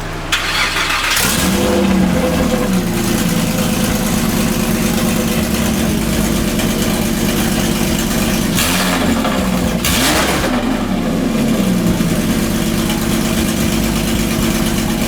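Porsche 997 Carrera 4S 3.8-litre flat-six started with new IPE headers and X pipe but no mufflers, catching just after the start, then idling loud and raw. It is blipped twice, about nine and ten seconds in.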